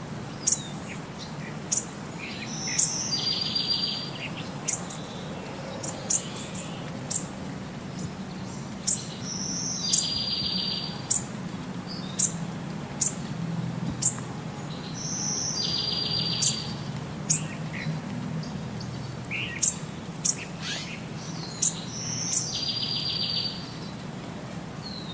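Birdsong: sharp high chirps about once a second, with a short buzzy trill about every seven seconds.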